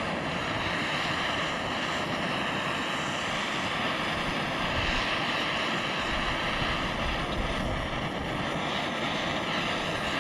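Gas torch flame burning steadily as it heats aluminum for alumiweld brazing rod, with wind buffeting the microphone.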